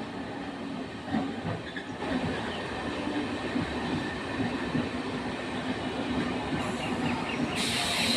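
Train running along the track, a steady rumble with a tone in it. A loud hiss starts near the end.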